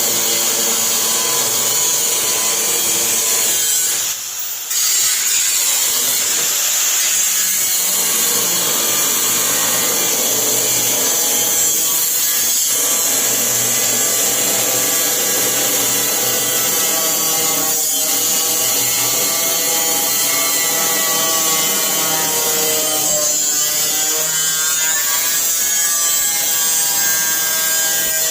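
Power cutting tool running steadily under load as it cuts a rusted section out of a steel car hood, with a high whine. It stops briefly about four seconds in, then carries on cutting.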